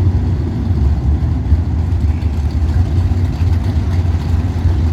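Drag-racing cars' V8 engines idling at the starting line with a steady, loud low rumble.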